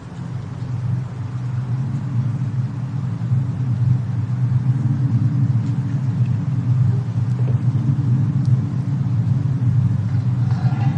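Steady low rumble of a fireplace-and-snowstorm ambience, with a few faint crackles scattered through it. It fades in over the first second or two.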